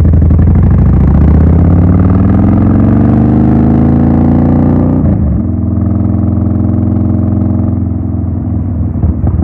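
Yamaha Warrior 1700's air-cooled V-twin through a Cobra Swept exhaust with the baffles taken out, accelerating under load. The engine note rises for about five seconds, breaks briefly at a gear change, then holds steadier.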